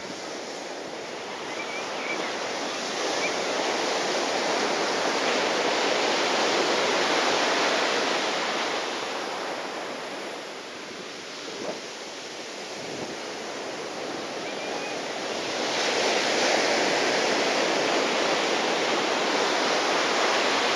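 Rushing noise of typhoon wind and sea water, swelling louder twice, once a few seconds in and again from about two-thirds of the way through.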